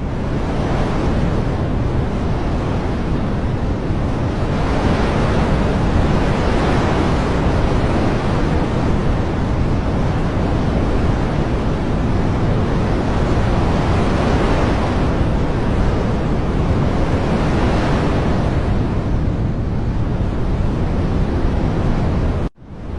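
Loud, steady rushing noise of a nature ambience track, swelling and easing every few seconds, with a sudden short drop to silence just before the end.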